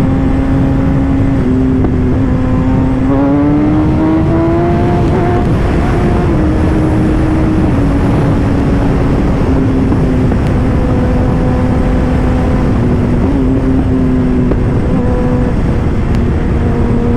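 Kawasaki ZX-10R's inline-four engine running under way, its pitch rising about three seconds in as the throttle opens, then stepping down twice and settling, over constant wind noise.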